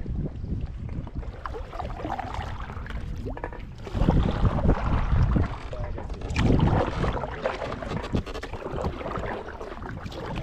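Kayak paddling on a river, paddle blades dipping and splashing, with wind rumbling on the microphone; the wind comes in two stronger gusts about four and six and a half seconds in.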